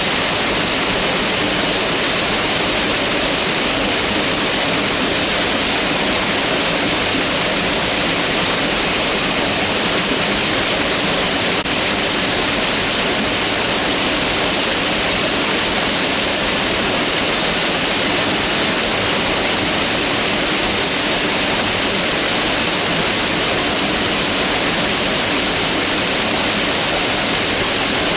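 Mountain river water rushing in a loud, steady, unbroken flow.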